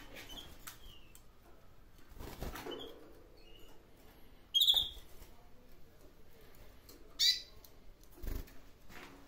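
Canaries giving short high chirps, with two louder calls about four and a half and seven seconds in, and a few brief wing flutters.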